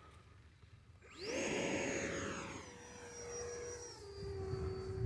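Electric ducted fan of an E-flite Viper 70mm EDF jet in flight, its whine rising sharply about a second in as the throttle comes up. The pitch then steps down twice as power is eased back on the full-flap landing approach.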